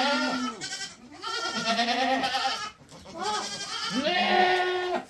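Livestock bleating: three long, wavering calls in a row, the last one the loudest.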